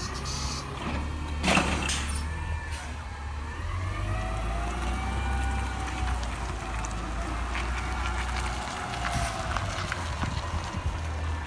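Garbage truck's diesel engine running with a low rumble, revving up and slowly back down for several seconds in the middle, with a sharp clunk about a second and a half in.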